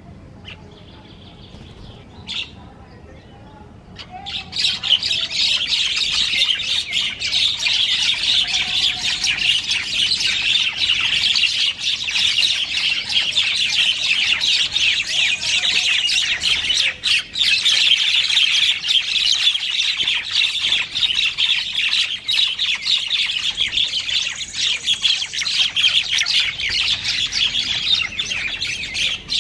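A flock of birds chattering and squawking in a dense, unbroken clamour of rapid short calls, starting suddenly about four seconds in after a quieter opening.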